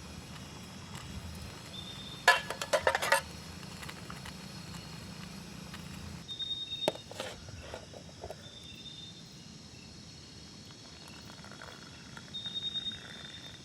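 A quick run of sharp clicks and knocks about two seconds in, and a few more around seven seconds, over an outdoor background with short, high, repeated insect-like calls.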